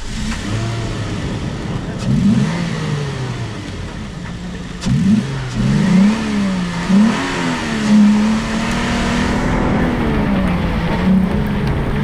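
Toyota GRJ79 Land Cruiser's 4.0-litre V6 petrol engine being revved hard off-road, its pitch rising and falling again and again as the throttle is worked on and off.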